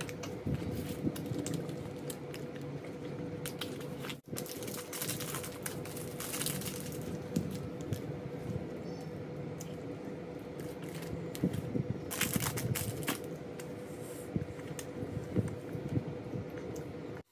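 Close-up chewing and mouth sounds of chocolate being eaten, with the chocolate wrapper crinkling twice, over a steady faint hum. The sound cuts out for an instant about four seconds in.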